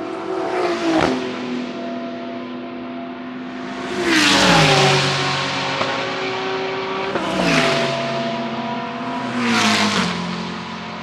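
GT3 race cars passing one after another at speed, four pass-bys in all, each engine note dropping in pitch as the car goes by; the loudest passes about four seconds in.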